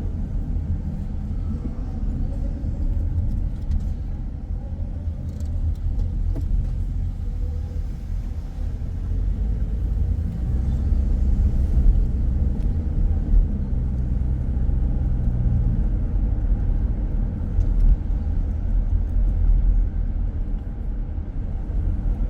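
Car driving: a steady low rumble of engine and road noise. A low steady hum joins in about nine seconds in and fades out near sixteen seconds.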